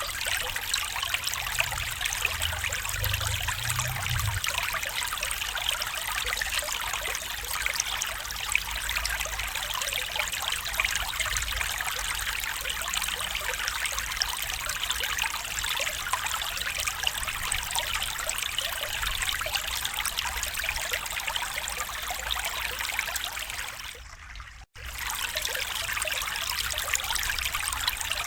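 A stream trickling and babbling steadily. About 24 seconds in, the sound dips and cuts out for an instant, then comes back.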